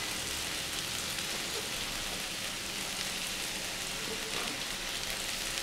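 Kohlrabi and potato stir fry sizzling in a frying pan, a steady, even hiss.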